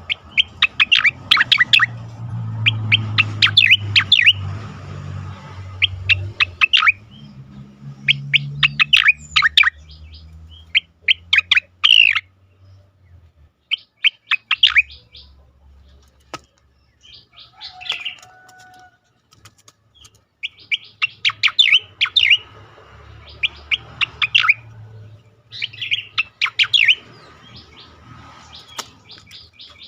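Cica koreng (striated grassbird) singing its 'ngejoss' song: fast bouts of sharp, high chirping notes, each a second or two long, repeated with short pauses. A low hum lies underneath for the first half.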